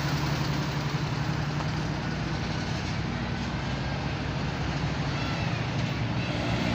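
A heavy truck's diesel engine running with a steady low hum, with road noise over it. A few faint, short high squeaks come in near the end.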